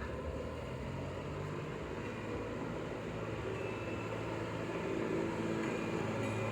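Mini train running with a steady mechanical hum, growing slightly louder toward the end.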